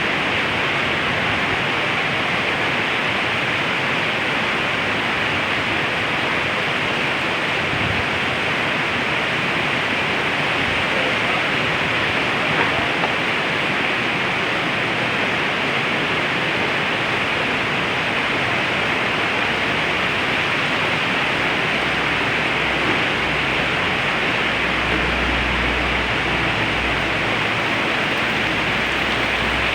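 Heavy rain falling in a steady, even hiss, with a low rumble for a few seconds near the end.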